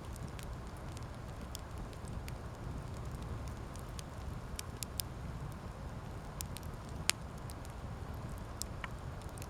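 Wood campfire burning, crackling with scattered sharp pops over a steady low rush; one louder pop about seven seconds in.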